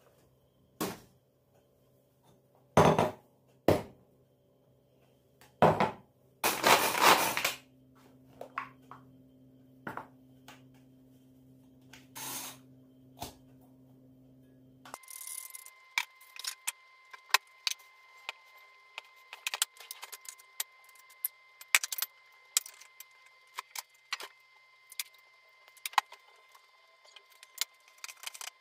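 Kitchen items being handled: scattered knocks and clatters of dishes and utensils, with a longer noisy scrape about seven seconds in, over a steady low hum. About halfway the hum switches abruptly to a higher one and the knocks give way to a quick run of small clicks.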